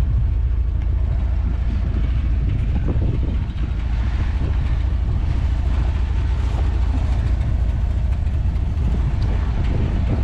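1990 Dodge Power Ram's 3.9-litre V6 idling steadily through a glass pack muffler, a continuous low, pulsing exhaust rumble.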